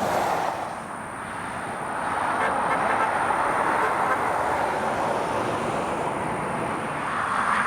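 Freight train cars rolling past: a steady rush and rumble of steel wheels on the rails, dipping briefly about a second in.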